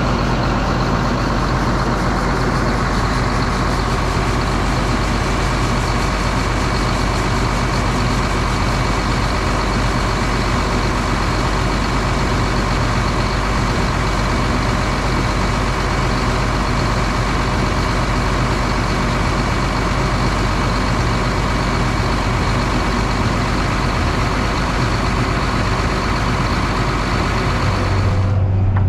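Heavy farm machinery engine running steadily under load: a low hum with a steady high whine over it. The sound changes abruptly just before the end.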